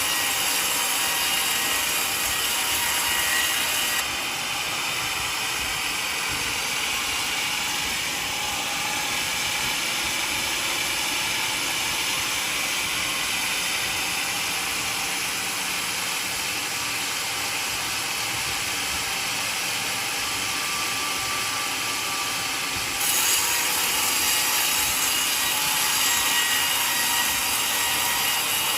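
Portable sawmill blade cutting through a mahogany log, a steady hissing saw noise that eases off slightly about four seconds in and picks up again near the end.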